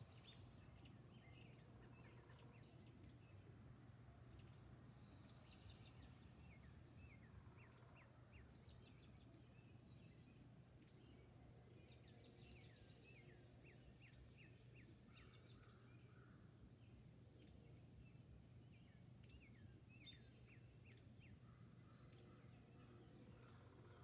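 Faint dawn chorus of songbirds: scattered short chirps and runs of repeated down-slurred whistled notes, over a low steady hum.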